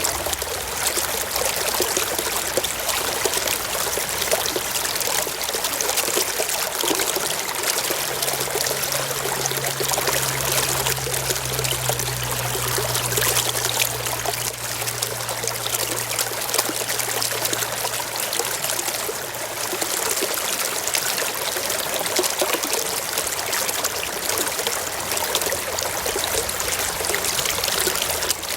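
A small stream running over rocks in a steady, even babble of water. A faint low hum is heard under it for several seconds in the middle.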